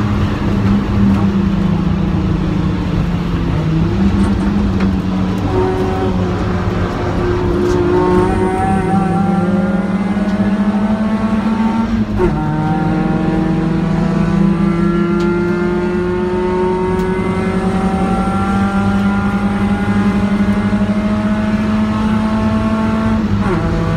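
Car engine under hard acceleration on a race track, heard from inside the cabin: its pitch climbs slowly and steadily, dropping back at gear changes a few seconds in, about halfway through and near the end.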